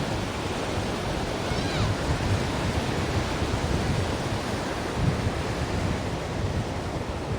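Ocean waves washing on a shore: a steady rush of surf with low swells rising and falling, and a faint short high call about two seconds in.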